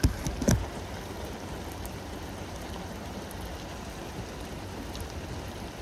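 Steady rain falling, an even hiss of drops. A few sharp knocks come in the first half second.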